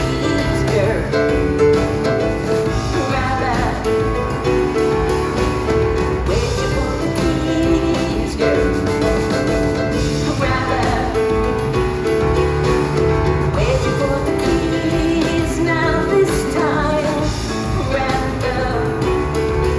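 Live rock concert music: a woman singing over piano and full band.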